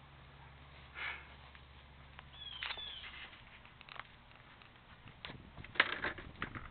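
A bird gives a short, falling whistled call about two and a half seconds in, against faint outdoor background. Scattered rustles and clicks run through it, the loudest a burst of rustling about six seconds in.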